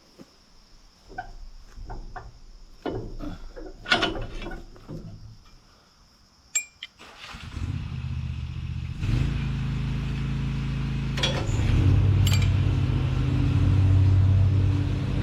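Scattered metal clicks and knocks of hand-tool work, then about seven seconds in an Allis-Chalmers tractor engine starts and runs steadily, getting louder about two seconds later.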